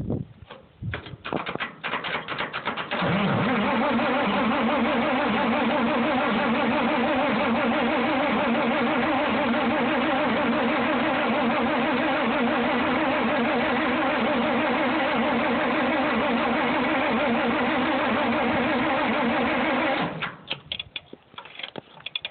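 A 1960 Farmall 460 tractor's six-cylinder engine being cold-started on full choke. After a few clicks it cranks on the starter for about seventeen seconds, turning over evenly without catching, then cuts off abruptly. It is a hard cold start on an engine left standing about a month.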